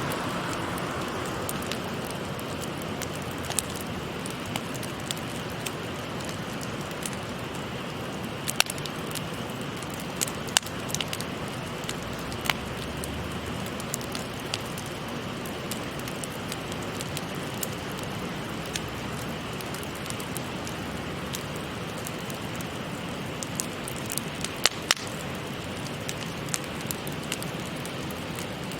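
Wood campfire crackling, with irregular sharp pops, over the steady babble of a shallow river.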